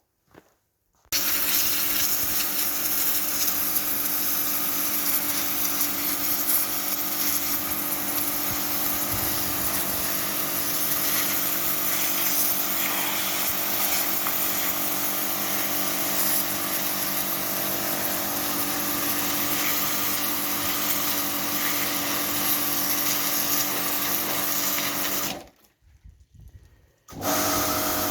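Portable electric pressure washer running: a steady motor-and-pump hum under a hiss. It cuts out suddenly about 25 seconds in and starts again a second and a half later.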